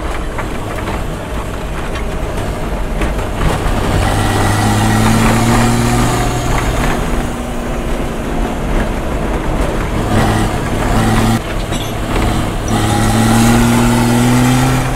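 BMW 525 TDS turbo-diesel straight-six under way, heard from inside the open-bodied cabin. The revs climb, fall back twice and climb again.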